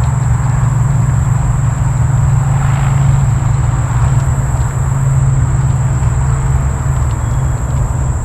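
Insects chirring in one continuous high-pitched drone over a loud, steady low rumble.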